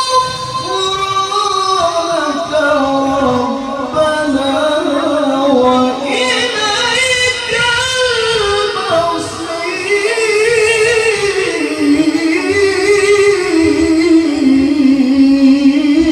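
A male qari reciting the Qur'an in melodic tilawah style, unaccompanied, drawing out long held notes with a wavering, ornamented pitch that climbs higher about six seconds in.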